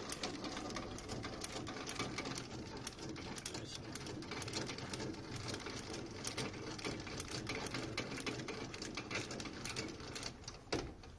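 Manual leveling leg of a motorhome being wound down, a steady fast mechanical clatter of fine ticks. There is a single louder knock near the end.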